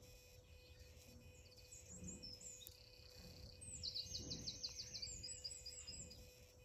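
Faint songbirds chirping outdoors, with a quick trill of about eight notes near the middle, over a low background rumble.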